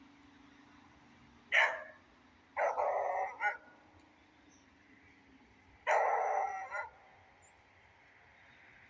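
Beagle barking three times: one short sharp bark, then two longer, drawn-out barks of about a second each, with a faint steady hiss of rain underneath.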